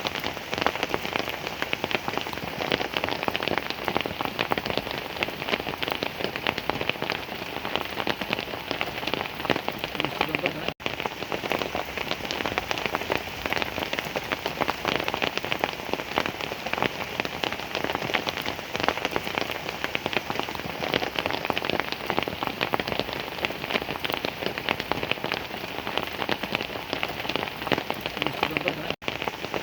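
Heavy rain falling steadily, a dense mass of drops striking a surface. The sound cuts out for an instant about eleven seconds in and again near the end.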